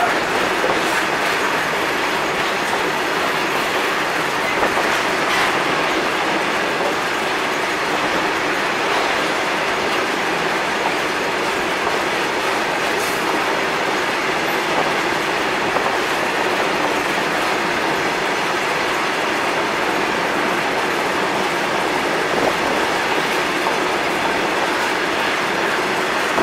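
A long Indian Railways freight train of open-top wagons rolling past close by, with the steady rattle and rumble of steel wheels on the rails. Faint wheel clicks over the rail joints come through now and then.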